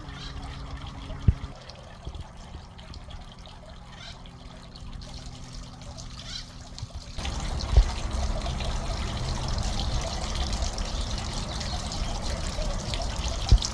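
Running water trickling and splashing, with a faint steady hum in the first half. The water gets abruptly louder about seven seconds in. A few short knocks are heard, at about one, eight and thirteen seconds in.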